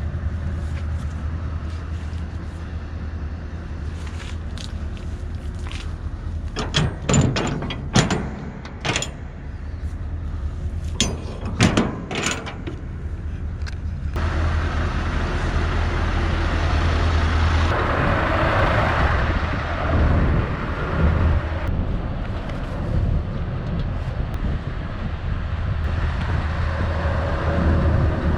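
Heavy truck engine running steadily. Several sharp knocks and clanks come in a cluster around the middle, followed by a longer stretch of louder hissing noise.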